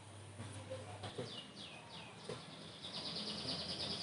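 A small bird singing: three quick, high falling whistles, then a fast high trill near the end.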